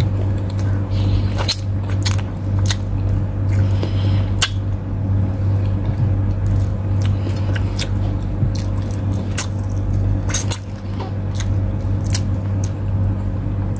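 Close-up eating sounds: chewing and short mouth and finger clicks scattered irregularly as chicken wing meat and rice are picked apart by hand and eaten, over a steady low hum.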